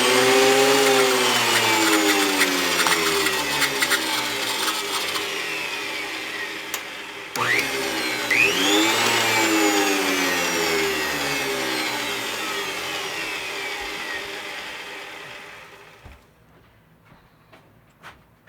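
Thickness planer's motor and cutterhead switched on for a brief test spin after a blade change: a whine that rises quickly, then falls slowly as the cutterhead coasts down. It is started a second time about seven seconds in, runs up and coasts down again, and goes quiet about sixteen seconds in.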